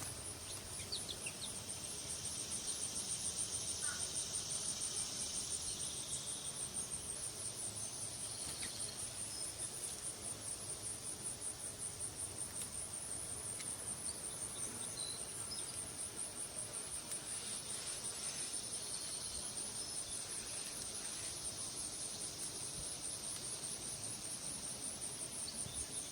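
Insects trilling: a steady, high-pitched pulsing that never stops, with a second, lower insect buzz that swells for a few seconds at a time. Occasional faint short chirps sound over it.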